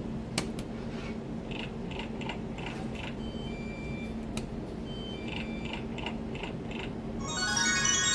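Electronic slot machine playing: a run of quick ticking clicks and short high beeps as the reels spin and stop, over a steady low hum. About seven seconds in, a bright chiming jingle starts.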